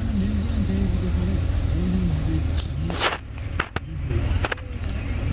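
Can-Am off-road buggy engine running at varying revs as it crawls over rough ground. There is a short noisy burst about three seconds in, then a few sharp knocks.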